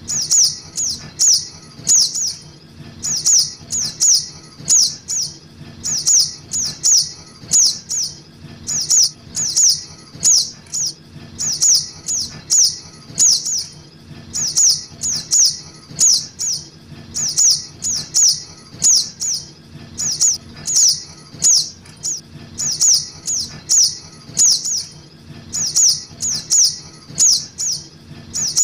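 Young little spiderhunter (sogok ontong) calls played as a bird-trapping lure: sharp, high chipping notes, each dropping in pitch, given in quick runs of two to four and repeated about once a second without a break.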